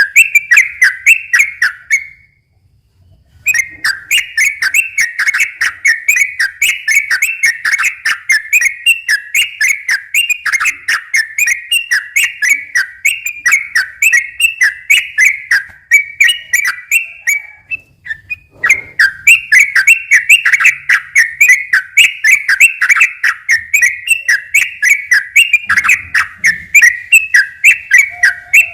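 Yellow-vented bulbul (trucukan) singing a long run of rapid, repeated whistled notes, the fast 'ropel' song. There is a pause about two seconds in and a short break about eighteen seconds in.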